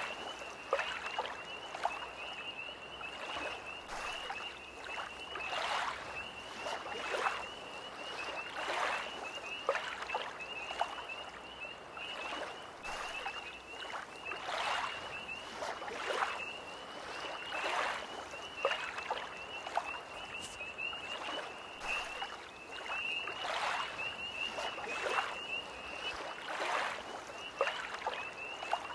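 Small lake waves lapping at the shore, a soft splash every second or two, over a steady high-pitched trilling chorus of tree frogs.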